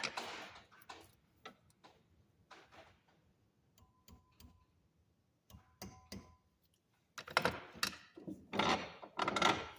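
Small clicks, taps and scraping as copper wire and hand tools are handled on a workbench while a wire pendant is bent into shape, with a louder stretch of scraping and rubbing near the end.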